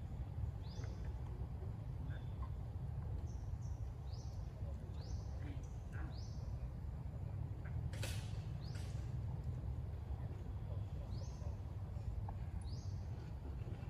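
A bird calling in short high chirps that rise in pitch, repeated every second or few, over a steady low outdoor rumble. Two brief sharp rustling noises come about two-thirds of the way through.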